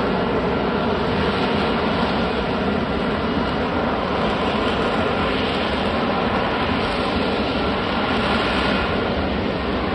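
F-35B Lightning II jet engine running loudly and steadily, an even, unbroken jet noise with no change in pitch or level.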